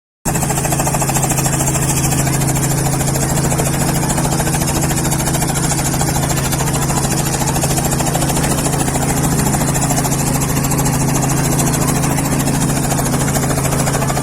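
Helicopter running with a steady engine drone and rapid rotor chop, unchanging throughout.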